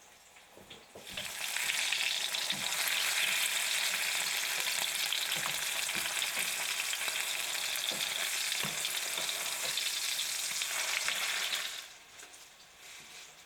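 Food sizzling in hot oil in a pan: a loud, steady sizzle that starts suddenly about a second in and cuts off suddenly near the end.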